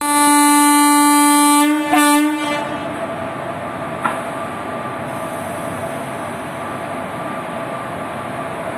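Indian Railways locomotive horn sounding one long blast and then a short second blast about two seconds in. It is followed by the steady rumble of the train running.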